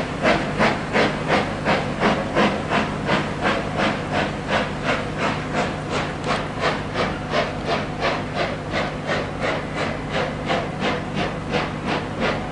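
LMS Black Five 45212, a two-cylinder 4-6-0 steam locomotive, working under steam: its exhaust beats in a steady rhythm of about three a second, with hiss. The beats slowly grow fainter as it draws away.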